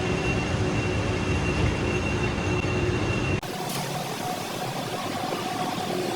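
Steady running noise of workshop machinery with a few steady tones in it. About three and a half seconds in it cuts off abruptly and gives way to a different steady machine noise.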